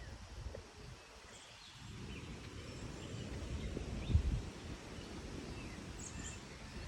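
Outdoor ambience: scattered faint bird chirps over a low rumble, with a brief, louder low thump about four seconds in.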